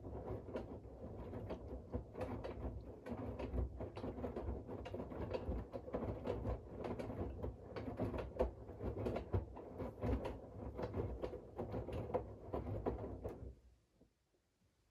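Siemens iQ700 washing machine's drum turning in its wash rhythm, wet laundry tumbling with many small clicks over a low rumble. It runs for about thirteen seconds, then stops abruptly.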